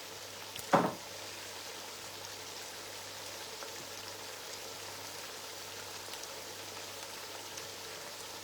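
Blended ginger and garlic frying in red oil in a pot: a steady, soft crackling sizzle. One short, louder sound comes about a second in.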